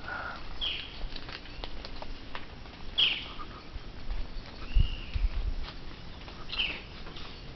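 Birds chirping: short calls every second or two, with faint clicks between them. A few low thumps come about two-thirds of the way through.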